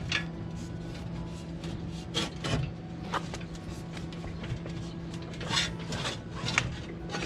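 A few short metallic knocks and scrapes from handling RV entry-step hardware, over a steady low hum.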